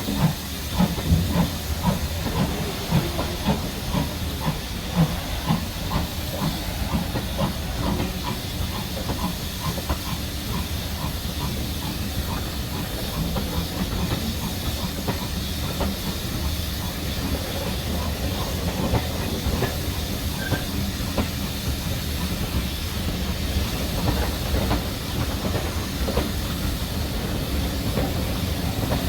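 Steam locomotive working a train, with regular exhaust beats that fade after several seconds over a steady hiss of steam and the rumble of the train running.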